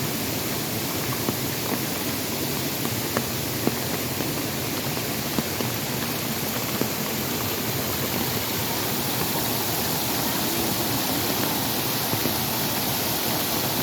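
Steady rush of falling water, from heavy rain or a waterfall, with a few faint sharp ticks scattered through it.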